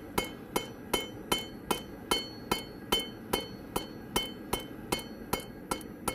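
Cross-peen forging hammer striking hot steel on an anvil in a steady rhythm, about two and a half blows a second, each blow ringing briefly: the steel is being spread sideways to widen a leaf.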